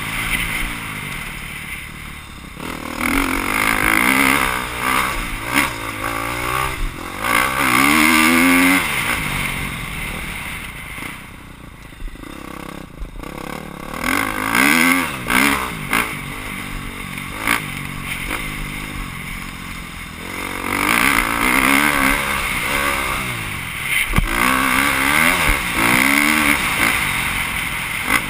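Motocross dirt bike engine revving hard and backing off, its pitch climbing through each gear again and again as it rides a dirt track. There is a quieter stretch off the throttle about a third of the way in.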